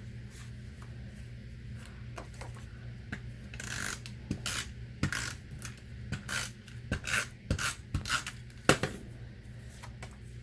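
Stampin' Up! Snail tape-runner adhesive being run over card stock in a series of about a dozen short, quick rasping strokes, starting a few seconds in, with the sharpest one near the end.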